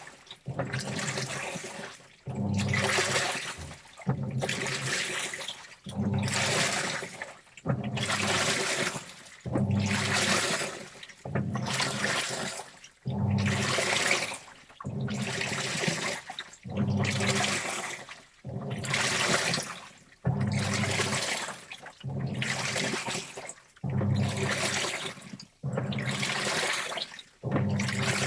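Washing machine in its wash cycle: the drum turns in regular strokes about every second and a half, each with a surge of sloshing water and wet clothes and a low motor hum, then a short pause as it reverses.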